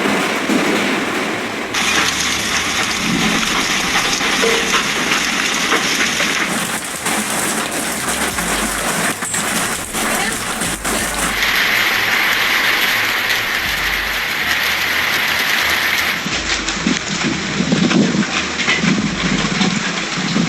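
Hailstorm with heavy rain, a dense hiss of hailstones and rain pelting hard surfaces. The sound changes abruptly every four to five seconds.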